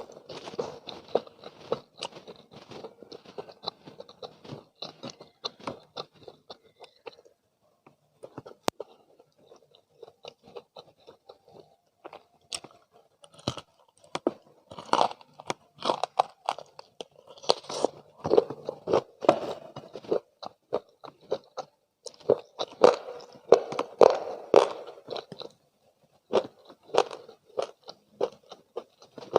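Close-miked chewing and crunching of crispy McDonald's spicy fried chicken, with wet mouth sounds and sharp crackles of the fried coating between the bites. There is a short break about a quarter of the way in.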